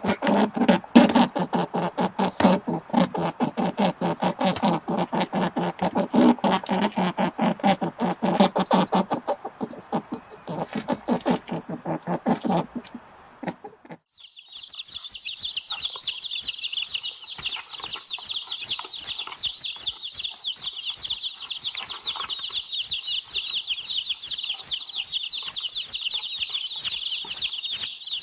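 Chickens clucking in a rapid, crowded stream of calls. About halfway through there is a short gap, and it changes to a dense, continuous high-pitched cheeping of many birds.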